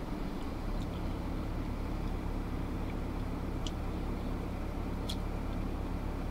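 Steady low engine hum of a vehicle idling while stopped, heard from inside the cab, with a couple of faint short high chirps.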